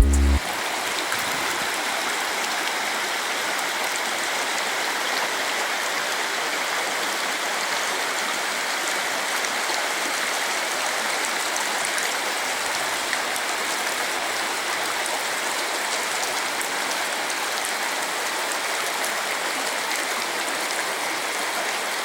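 Steady rushing of a mountain stream's flowing water, an even hiss-like rush with no breaks or changes.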